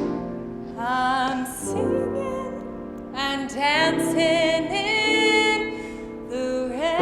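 A woman singing long held notes with vibrato in a theatrical style, over piano accompaniment.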